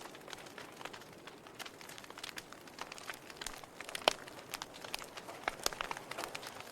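Wood logs burning in a fireplace, crackling with irregular sharp pops over a soft hiss. One louder pop comes about four seconds in.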